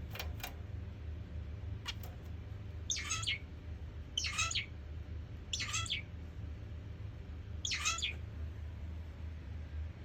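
Zebra finch giving four short, nasal calls, a second or two apart, over a steady low hum. A few faint clicks come in the first two seconds.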